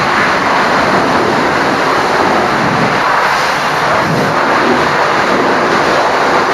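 High-pressure water spray hissing steadily and loudly against a truck.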